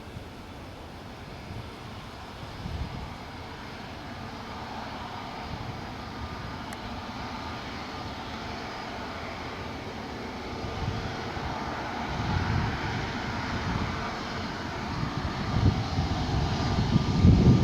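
Jet engines of an Airbus A320neo at takeoff power, a steady rushing drone with a faint whine that grows louder over the second half as the airliner comes nearer, with bursts of low rumble near the end.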